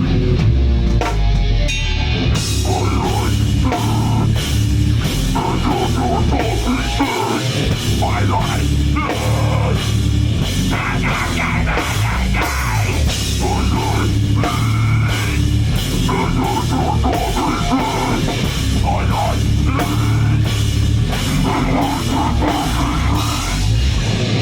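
Heavy metal band playing live, with guitars and a drum kit; the cymbals come in about two seconds in and the drumming runs on without a break.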